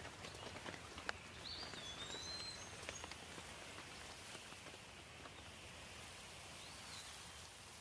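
Rain falling steadily, faint, with scattered sharp drop ticks. A bird gives a few short whistled calls about a second and a half in and again near the end.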